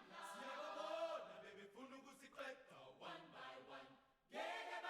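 Faint chanted singing, pitched voices rising and falling, breaking off for a moment about four seconds in.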